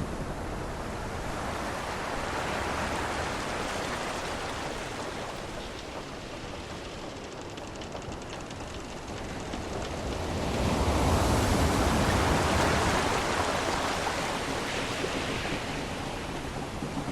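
Sea waves washing in a steady hiss, swelling and falling back twice, the bigger surge about ten seconds in.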